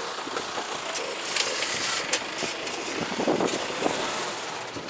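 Truck engine running, with scattered short clicks and knocks over it.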